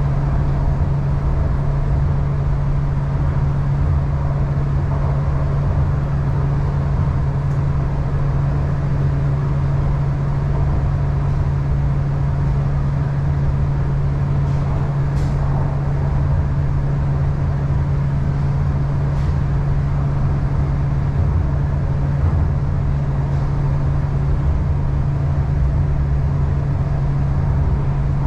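Cabin noise of an MTR East Rail Line R-Train, a Hyundai Rotem electric multiple unit, running at steady speed. It is a steady, unchanging drone with a strong low hum over the rumble of the wheels on the track.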